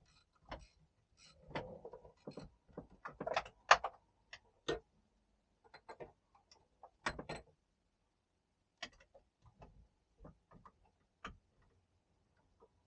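Hand tools working on metal engine parts: irregular sharp clicks and knocks, with a cluster of louder clanks a couple of seconds in and another about seven seconds in.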